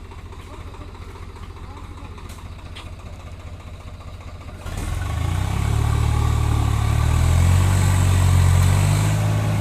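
Tractor engine idling with a steady low chug, then about halfway through it revs up and runs loud and hard, typical of a tractor straining while its wheels slip.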